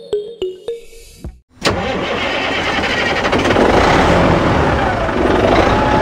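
Plucked background music ends a little over a second in. After a brief pause, a loud engine-like running sound starts suddenly and carries on steadily.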